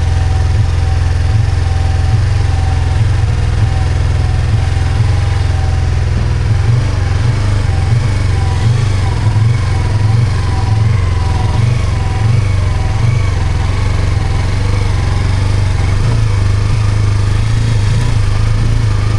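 Yamaha R25's parallel-twin engine running while the bike is ridden after a push start, with a steady low rumble and a wavering higher note. The engine is failing and the rider fears it will cut out.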